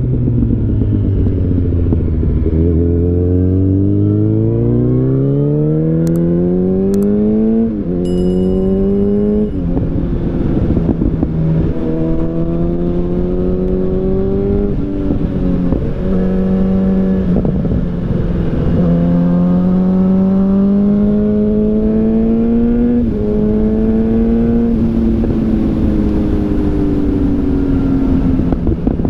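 2013 Yamaha FZ8's inline-four engine through an SC Project aftermarket exhaust, under way: the revs climb hard for several seconds, then drop sharply at an upshift, and a series of shorter climbs and drops follows as it runs up through the gears. The revs ease down near the end.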